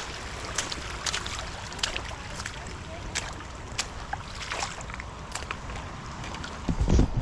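Steady rush of creek water with scattered sharp clicks and taps, and one loud low bump near the end.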